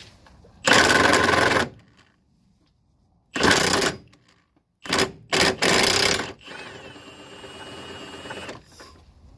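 Impact wrench hammering on a stuck nut in five short bursts, the first about a second long and the rest shorter, followed by a quieter whir with a steady whine for about two seconds.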